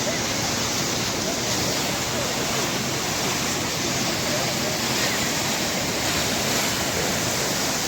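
Ziz river running again after rain, a steady rush of flowing water.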